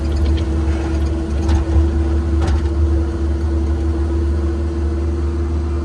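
Cat 306 mini excavator's diesel engine running steadily with a steady hum, a couple of faint knocks mixed in.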